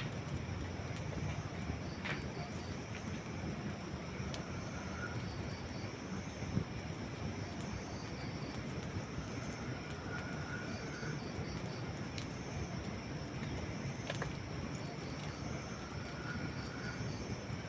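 Wood campfire burning: a steady low rush of flames with scattered sharp crackles and pops of dry wood, one louder pop about six and a half seconds in.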